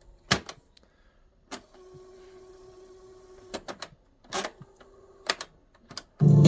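Sharp mechanical clicks from a vintage Panasonic boombox's buttons and switches being worked, about six of them, with a faint steady hum between. Music starts playing from the boombox again about six seconds in.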